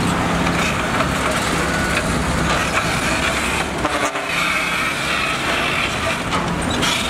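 Heavy earthmoving machine's diesel engine running steadily, with scattered knocks over it; the sound dips briefly about four seconds in.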